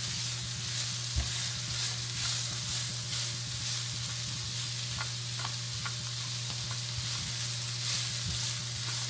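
Sliced onions with fresh rosemary and thyme sizzling in olive oil in a pan while they sauté toward translucent, with a utensil stirring and clicking against the pan now and then. A steady low hum runs underneath.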